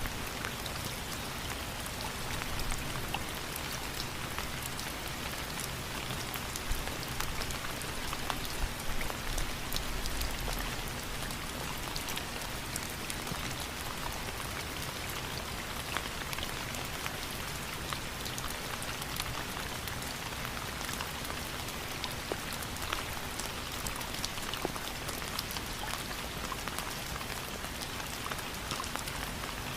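Steady rain falling, with individual drops pattering and ticking on a surface.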